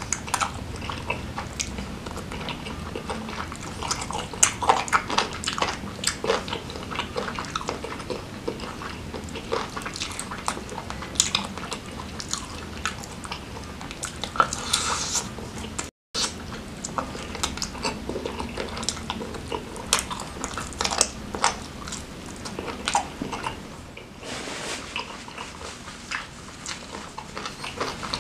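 Close-miked eating sounds of a person biting and chewing grilled chicken dipped in chili sambal: a dense run of short, wet mouth clicks and smacks. The sound cuts out for a moment about halfway through.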